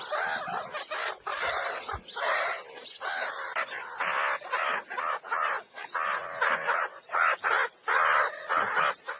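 Birds calling in a rapid string of short calls, over a steady high-pitched tone.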